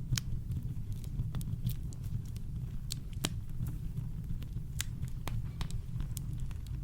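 Campfire crackling: irregular sharp snaps and pops, about a dozen, the loudest a little over three seconds in, over a steady deep rumble of brown noise.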